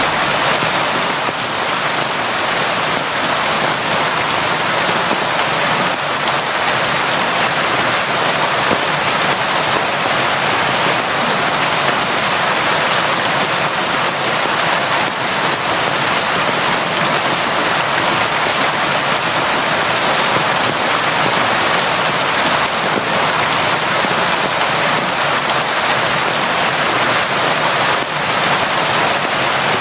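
Constant rain falling, a steady, even hiss with no separate drops or thunder standing out.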